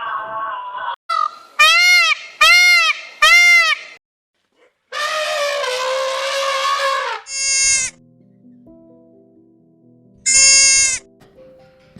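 A run of separate animal calls: three short cries, each rising then falling in pitch, in quick succession, then a longer wavering call and two shorter high cries, with a few brief musical notes in between.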